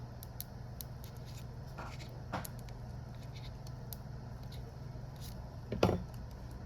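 Small clicks and taps of hand tools working on a smartphone during a battery replacement, with a brief scrape about two seconds in and one louder knock near the end, over a steady low hum.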